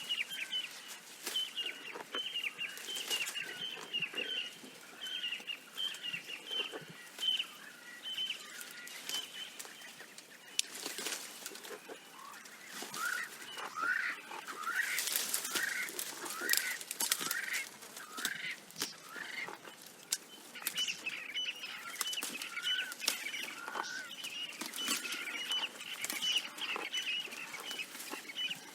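Birds calling in runs of short, quick, high chirping notes, with a spell of swooping calls in the middle.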